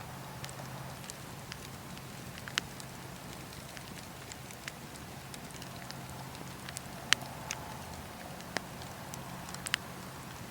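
Campfire burning: wood crackling, with scattered sharp pops over a steady low rush, the loudest pop about seven seconds in.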